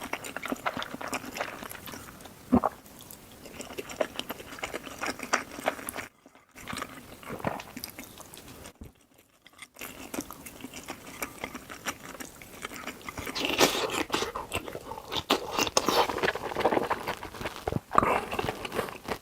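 A person eating close to the microphone: biting, chewing and crunching, with many small wet clicks and crackles. The sound drops out briefly twice, about six and nine seconds in.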